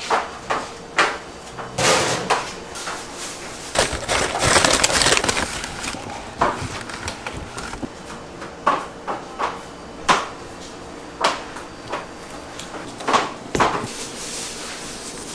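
Kitchen work: irregular knocks and clicks of utensils, trays and dough being handled, with a denser stretch of clatter and rustling around four to five seconds in.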